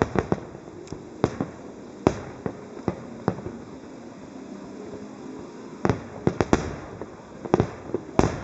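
Fireworks shells bursting in an irregular series of sharp bangs, clustered at the start and again thickly in the last couple of seconds, over a steady background hiss.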